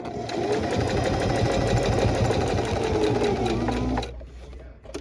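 Singer HD electric sewing machine running at speed, the needle stitching rapidly along a cushion-cover seam. The motor slows and stops about four seconds in.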